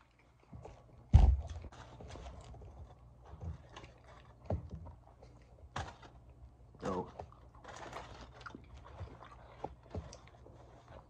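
Close-up eating of a chicken gyro in pita bread: chewing and biting with many quick wet mouth clicks and smacks. A single loud thump comes about a second in.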